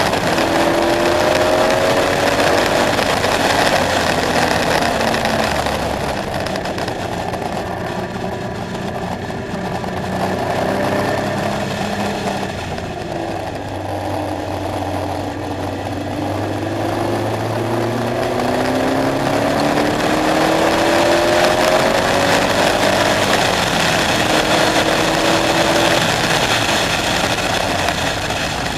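KTM X-Bow's engine running hard under acceleration, its pitch climbing in repeated rising glides. It eases off with falling pitch about halfway through, then pulls up through the revs again.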